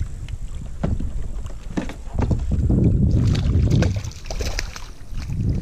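Wind buffeting the microphone in a low rumble, loudest about two to four seconds in, with scattered small knocks from handling in a kayak.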